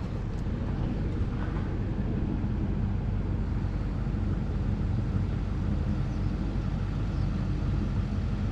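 Truck driving on the road while towing a trailer loaded with a tractor: a steady engine and road rumble.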